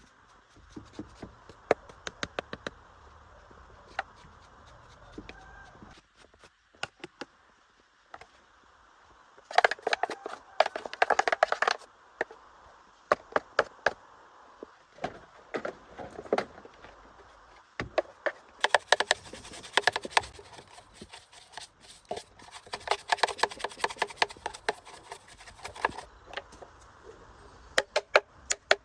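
Hand tools clicking and clinking against car parts: scattered sharp knocks, with two stretches of rapid clicking, a short one about a third of the way in and a longer one in the second half.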